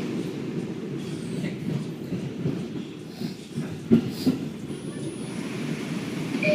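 New York City subway car on the 5 line rolling along, a steady low rumble of wheels and motors heard from inside the car. A single sharp clack stands out about four seconds in.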